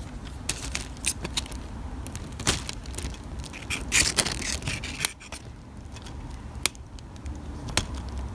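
A small lithium battery pack being slid and pushed into the slots of a lightweight plastic RC toy bird: plastic scraping with scattered sharp clicks, until it seats all the way.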